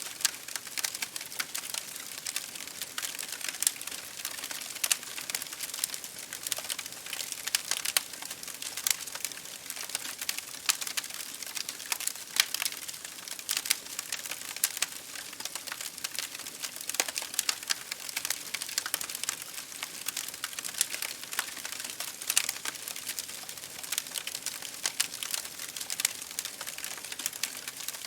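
Campfire burning with a steady crackle: irregular sharp pops and snaps of burning wood over a soft hiss.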